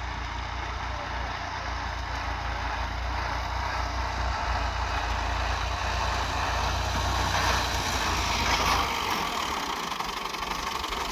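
Fiat 480 tractor's diesel engine running steadily with a low pulsing throb, growing gradually louder; the low throb fades about nine seconds in.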